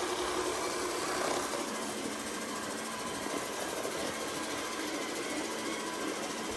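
Bissell SpinWave robot vacuum running steadily, its motor and brushes humming at an even level.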